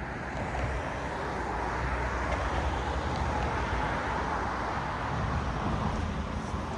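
Cars passing on a road: steady tyre and engine noise that swells as a car goes by around the middle, with the next vehicle approaching near the end.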